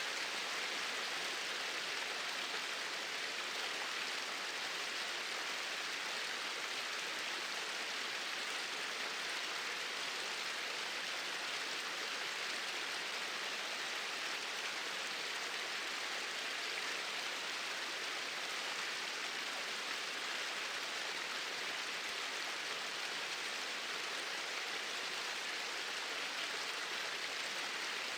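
Small waterfall with water pouring in a straight, steady flow, making an even rushing hiss.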